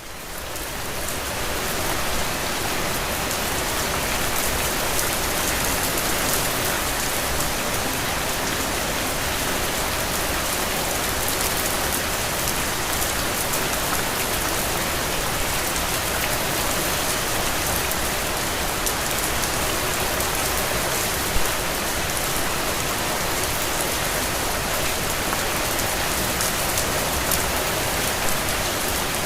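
Steady rain falling, a dense even patter of many drops on surfaces. It fades in over the first couple of seconds, then holds steady, with one slightly louder drop about twenty seconds in.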